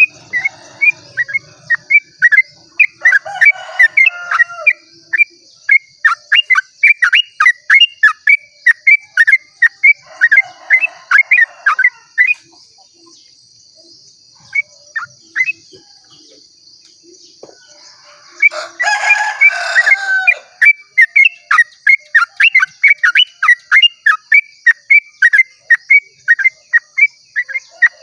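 Yellow-vented bulbul (trucukan) singing its rapid repeated 'ropel' call: sharp notes at about three to four a second, broken by a few fuller warbled phrases and a pause in the middle. A steady high buzz runs underneath throughout.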